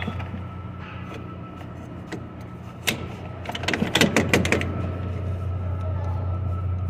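Steady low hum of a running motor, with a single click and then a second-long flurry of metallic clicks and rattles about three and a half seconds in, as steering parts are worked on by hand.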